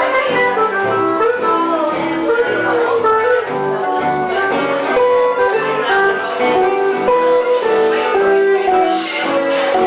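Live band music with guitar and a melody line of long, gliding notes over a steady accompaniment.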